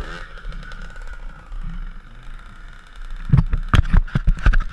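Dirt bike engine running at low revs after coming off the throttle, with a cluster of sharp knocks and clatters in the last second and a half.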